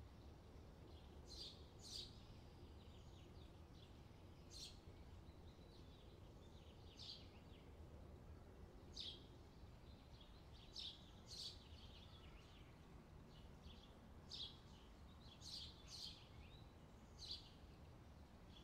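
Near silence: a faint low hum with sparse, short high chirps from a small bird, about one every second or two.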